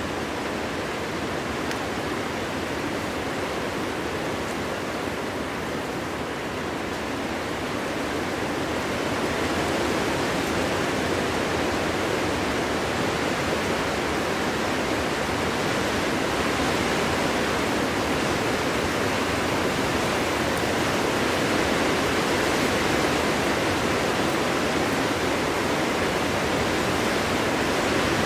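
Wind blowing steadily through forest trees, an even rushing noise that swells a little about a third of the way in.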